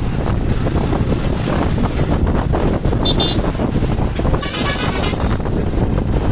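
Wind rushing over the microphone and traffic noise while riding in town. A short vehicle horn toot comes about three seconds in, and a louder, higher-pitched blast about four and a half seconds in.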